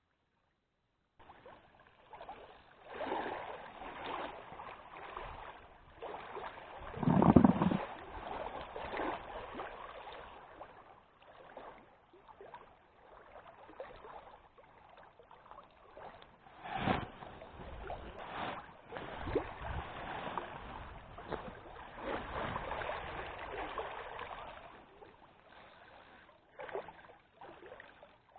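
Water splashing and lapping, with a louder splash about seven seconds in and a few sharp knocks later on.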